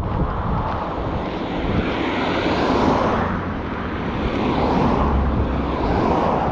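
Road vehicles passing close by, their tyre and engine noise swelling twice, first about three seconds in and again near the end.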